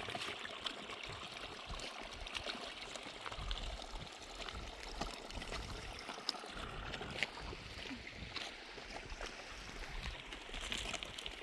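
Water flowing and trickling steadily, with small scattered ticks.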